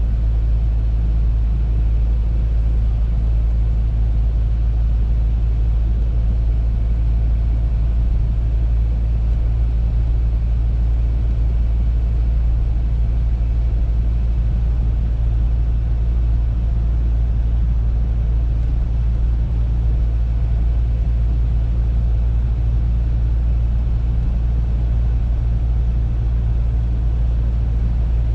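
Audi A3 car driving at an even pace: a steady low rumble of engine and road noise.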